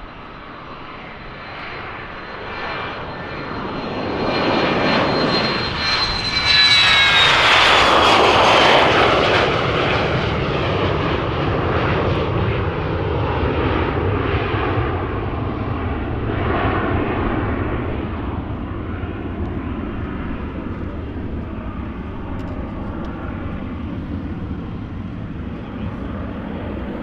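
Departing airliner passing close by, its engines' high whine dropping in pitch as it goes past a few seconds in, at its loudest then, followed by a long rumble that slowly fades away.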